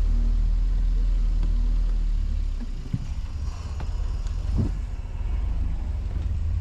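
ATV engine running while the quad is ridden over rough ground. It is loud and low for the first couple of seconds, then eases off.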